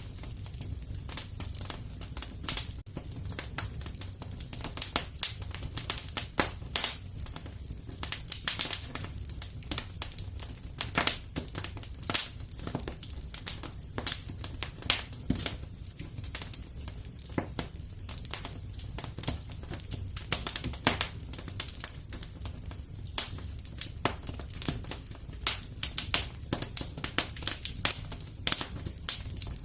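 Fireplace fire crackling: irregular sharp pops and snaps, sometimes several in quick succession, over a steady low rumble of the flames.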